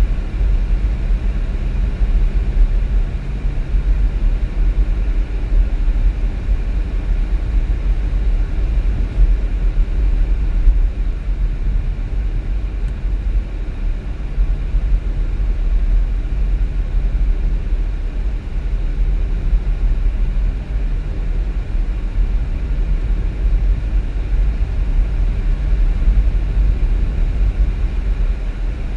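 Steady low rumble of a car on the move: engine and tyre noise with no change in pace.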